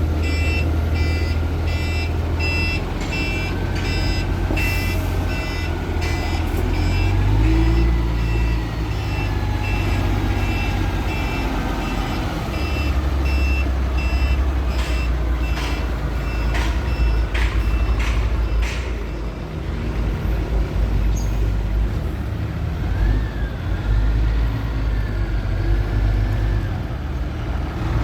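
Sany concrete mixer truck's diesel engine running steadily, with an electronic reversing beeper sounding about twice a second for roughly the first six seconds. A few sharp clicks come in about halfway through.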